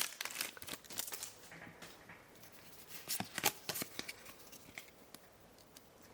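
Freshly opened Pokémon trading cards being handled and flicked through the stack: scattered faint clicks and rustles, in clusters about a second in and again around three seconds in.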